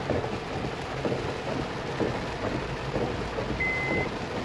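Heavy rain falling steadily on a moving car and the wet road, heard from inside the car. Near the end a high electronic beep sounds once, the first of a series repeating about once a second.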